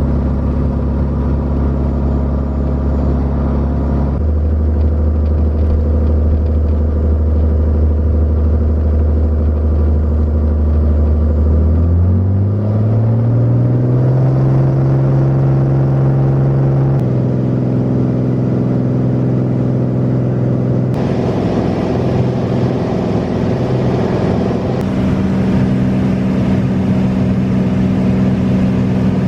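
Beechcraft Bonanza A36's six-cylinder piston engine droning steadily. About twelve seconds in, it rises in pitch as it speeds up. The tone shifts abruptly several times, as between spliced shots.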